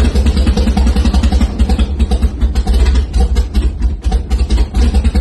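Freshly assembled swapped-in engine running at idle with a choppy, uneven beat from a big thumper cam.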